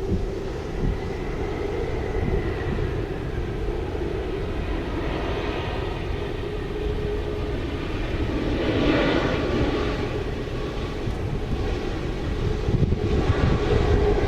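Engines of a landing airliner, a steady drone with a held tone that swells about nine seconds in and again near the end.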